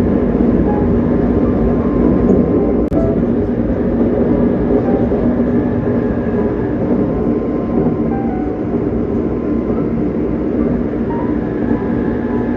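Steady running rumble of a moving train.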